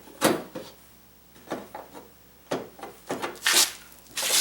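Handling of plastic headlight parts being fitted and clipped into place: a string of separate clicks and knocks, with two short scrapes near the end.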